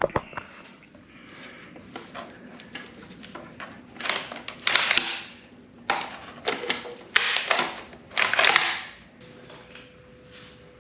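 Hands-on workshop handling noises: a sharp click near the start, then several short scraping, rattling bursts in the second half.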